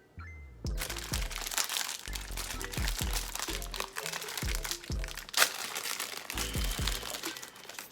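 Crunchy pizza-flavoured crackers being bitten and chewed close to the microphone, with a sharp crack about five seconds in, over background music with deep bass notes sliding downward.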